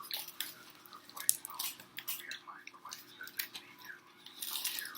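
Close-miked chewing of a burger: irregular wet mouth clicks and smacks. There is a louder breathy burst near the end.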